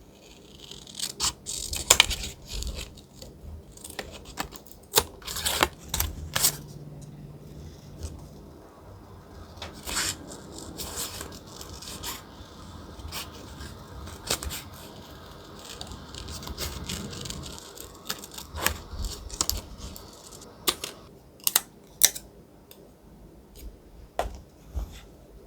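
Thick paper being handled, cut and torn for a collage journal: irregular crisp rustles, scrapes and sharp clicks.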